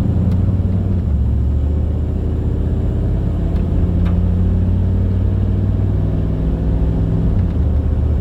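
Inside the cab of a 1995 Chevrolet 2500 pickup on the move: steady engine and road drone, with the engine note changing about a second in and again near the end.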